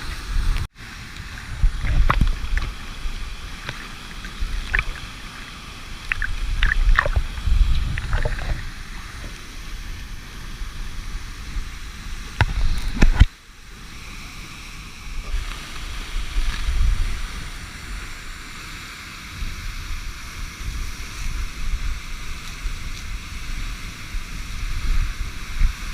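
Steady rush of waterfall water, with wind rumbling on the microphone and scattered splashes and knocks; the sound drops out sharply twice, under a second in and again about thirteen seconds in.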